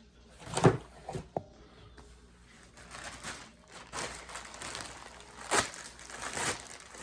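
Packaging rustling and crinkling as items are handled and unpacked, with a few sharp knocks, the loudest about a second in.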